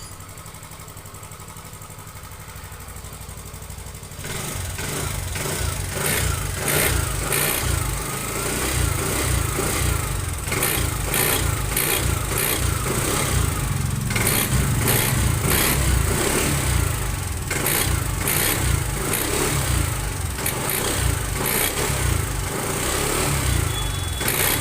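TVS Jupiter 125 BS6 scooter's single-cylinder engine idling, then revved again and again from about four seconds in, with a bell-like ringing noise as the throttle opens. The mechanic traces the noise to a worn bush inside the clutch.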